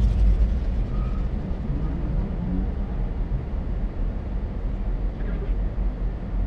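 Steady low rumble of idling car engines, heard from inside a car.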